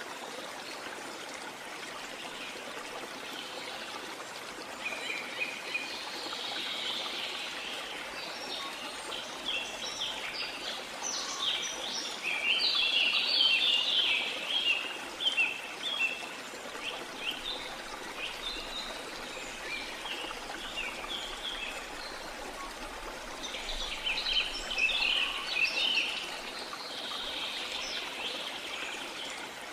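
Waterfall water rushing steadily, with birds chirping in scattered bursts over it, busiest about a third of the way in and again near the end.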